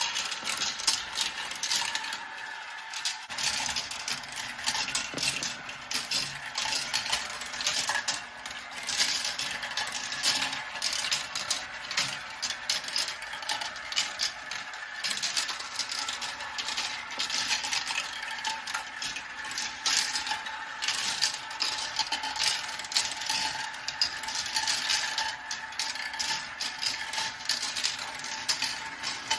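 Marbles rolling and clicking through a marble run track: a continuous rapid clatter of many small impacts, with a faint ringing hum under it.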